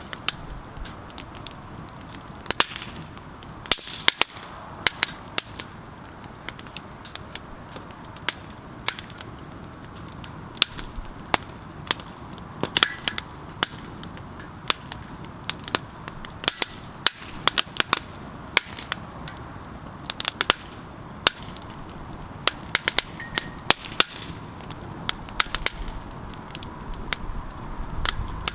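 Campfire crackling: burning wood giving off sharp, irregular pops and snaps, at times several in quick succession, over a faint steady hiss.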